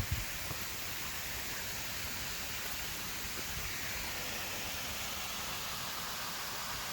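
Steady rushing of water from a small waterfall, an even hiss with no breaks.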